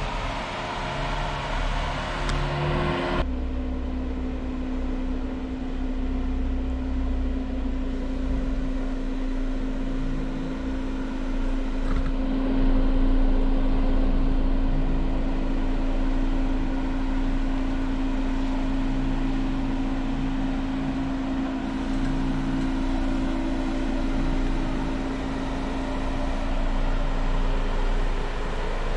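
Jeep engine running with the steady rumble of driving slowly over the trail. The sound changes abruptly about three seconds in, after which a steady hum holds.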